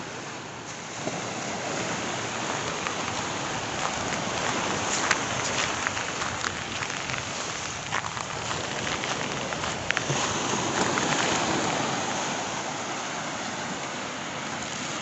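Seashore water sloshing and surf hissing steadily, with wind buffeting the microphone and a few brief sharp splashes or knocks.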